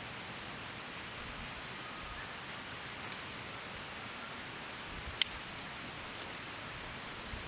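Steady soft outdoor hiss with a single sharp crack of burning wood from a small twig-fire stove about five seconds in.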